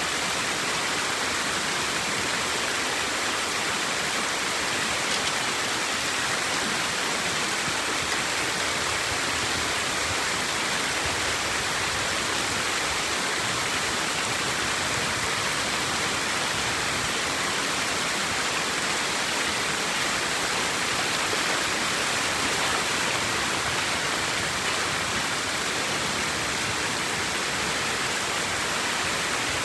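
Floodwater rushing steadily through a cleared dam gap or drain, a strong, even flow with no break or change.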